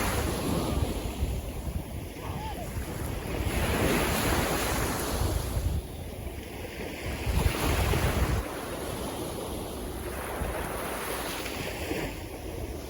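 Sea waves washing in and breaking, swelling and fading every few seconds, with wind rumbling on the microphone.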